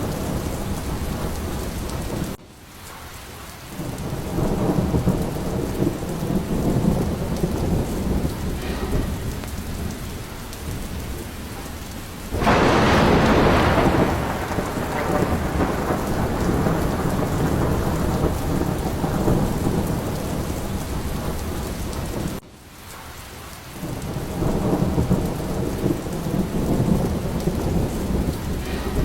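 A thunderstorm: steady rain with a continuous low rumble of thunder. About twelve seconds in, a sharp, loud thunderclap cracks and rolls away over a couple of seconds. Twice the sound drops away abruptly and swells back within a second or so.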